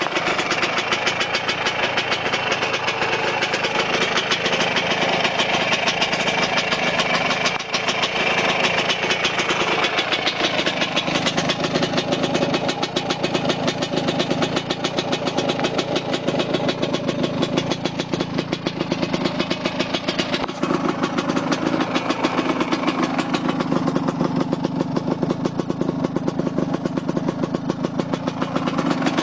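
Tomos ATX moped's small two-stroke engine idling steadily after a cold start, with a fast, even run of firing pulses that shifts slightly in tone a couple of times.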